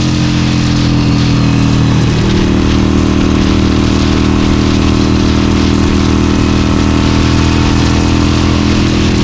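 Harley-Davidson Forty-Eight's air-cooled 1200 cc V-twin running steadily under riding load, with a slight rise in engine pitch about two seconds in. A rushing noise of wind and road runs under the engine.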